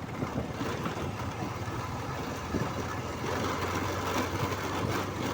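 Hero Karizma ZMR motorcycle engine running steadily while being ridden.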